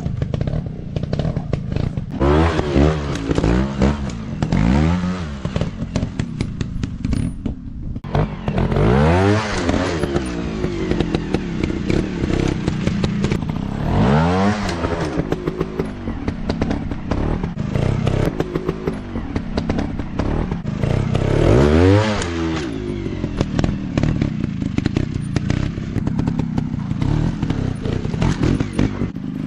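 Dirt bike engines running on a trail, revving up and down in several surges, with clattering and scraping.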